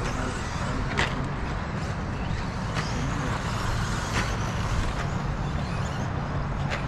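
Radio-controlled 2WD stadium trucks running around a race track: a steady noisy haze with faint motor whine, broken by four sharp clacks.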